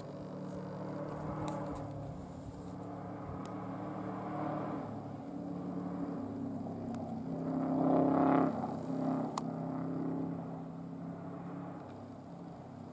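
Rally car engine heard at a distance, its note rising and falling as it is driven hard along the stage. It is loudest about eight seconds in, as the car passes closest.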